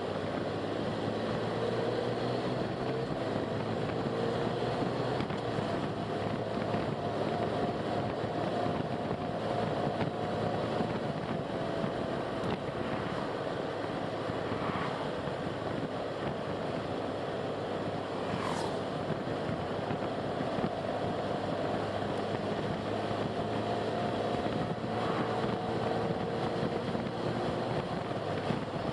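A car driving along a road: steady engine and tyre noise with a faint hum that drifts slowly in pitch, and one brief high squeak about two-thirds of the way through.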